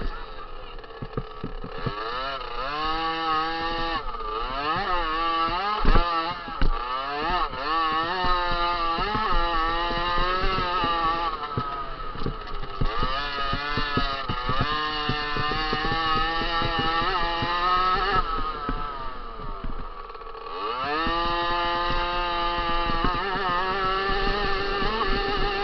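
50 cc two-stroke motocross bike engine being ridden hard, its pitch repeatedly rising and falling as the throttle is opened and shut through the gears. There is a thump about six seconds in, and near the end the engine drops off briefly, then revs sharply back up.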